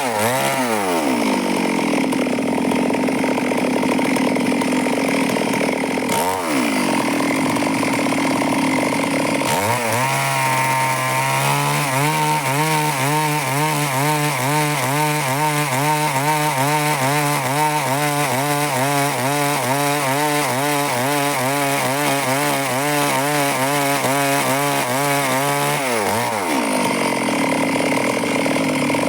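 A Stihl chainsaw running at high revs while cutting wood, its engine pitch wavering rhythmically, about one and a half times a second, through the middle of the cut. Three times it drops sharply in pitch and climbs back: near the start, about six seconds in and near the end.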